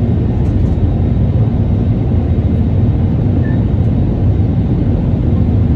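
Airbus A320neo cabin noise: a steady low rumble of its CFM LEAP-1A26 engines and airflow, heard from inside the passenger cabin.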